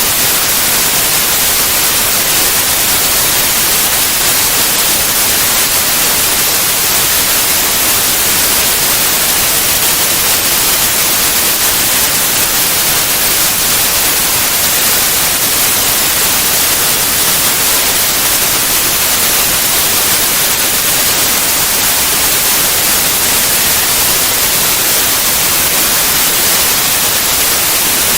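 Steady white noise: an even hiss across all pitches, strongest in the highs, with no change in level.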